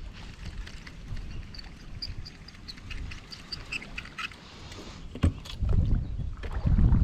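Wind buffeting the microphone in low gusts, strongest near the end, with faint short bird chirps in the middle and a couple of sharp knocks about five seconds in.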